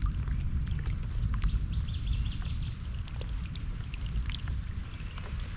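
Water splashing and dripping outdoors over a steady low rumble of wind on the microphone, with short high chirps of small birds scattered through.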